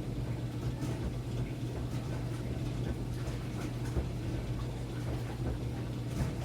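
Enxuta Luxo Soft washing machine running with a load of towels: a steady low motor hum with faint irregular ticks.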